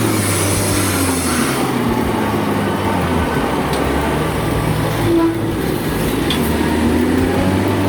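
A heavy vehicle's engine running steadily, with a low hum and a few pitched tones that drift slowly up and down.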